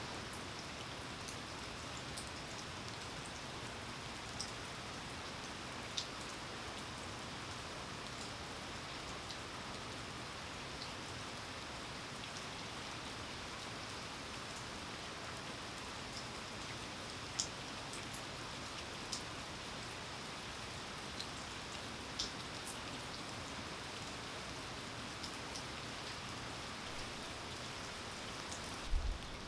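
Steady rainfall with scattered louder single drops ticking now and then, and a short low thump near the end.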